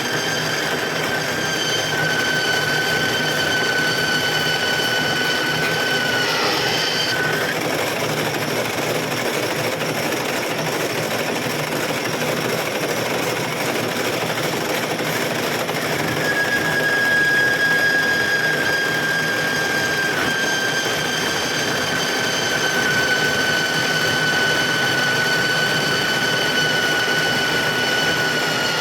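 Metal lathe running and machining, a steady mechanical noise with a high whine that slowly sinks in pitch, breaks off about six or seven seconds in, and comes back about sixteen seconds in.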